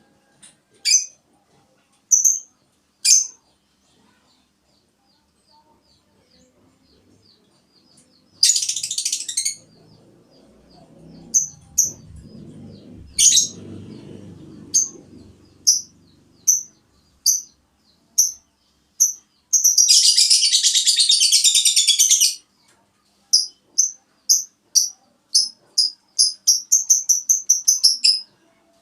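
Small bird chirping in short, high calls spaced a second or more apart, breaking into a long rapid trill about twenty seconds in and then a quick run of chirps near the end.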